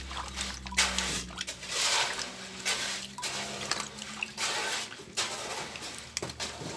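Water splashing in uneven surges as the dirty drain-valve parts of a washing machine are rinsed by hand, over a steady low hum.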